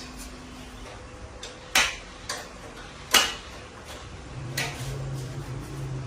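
Sharp metallic clinks and knocks, two louder ones with a short ring, as tools or metal parts are handled; from about two-thirds of the way in, a low steady hum sets in underneath.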